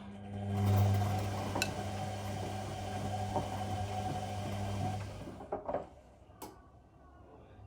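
Whirlpool Indiana 1400 washing machine mid-wash: a motor hums steadily with a low tone for about five seconds, then stops, followed by a few clicks.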